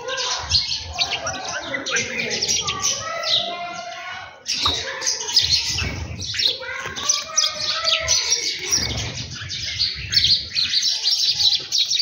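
A busy chorus of small birds chirping and twittering without pause, with some lower warbled notes mixed in; it drops off briefly a little past four seconds in.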